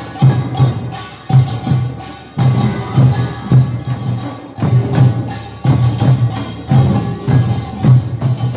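Korean nongak percussion ensemble playing: drums beating a driving rhythm under ringing gongs.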